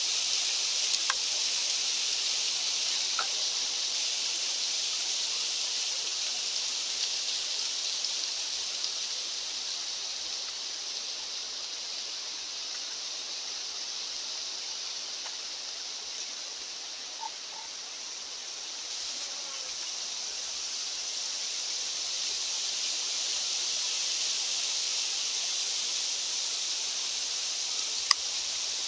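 Wind rushing steadily on a mountainside, slowly easing and then building again, with a few faint ticks and a sharp click near the end.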